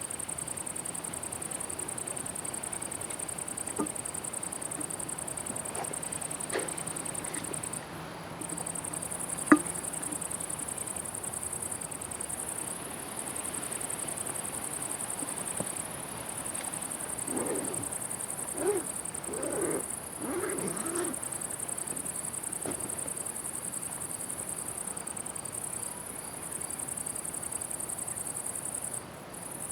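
Steady, high-pitched chirring of crickets in a summer meadow. A single sharp click stands out about nine seconds in, and a few short, lower sounds come and go about two-thirds of the way through.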